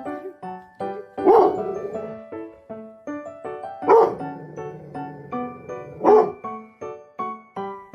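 A dog barking three times, a couple of seconds apart, over light keyboard music with plucked-sounding notes.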